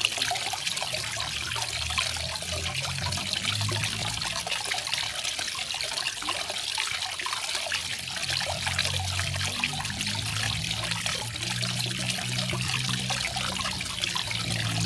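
Small garden waterfall: water falling and trickling steadily, an even splashing rush with a faint low hum that swells and fades underneath.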